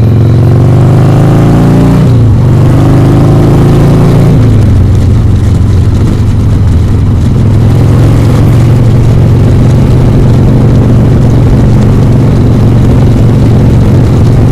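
Harley-Davidson Sportster 1200's air-cooled V-twin engine accelerating hard through the gears. The revs climb and drop at an upshift about two seconds in, climb again to a second upshift about four seconds in, then hold steady at speed.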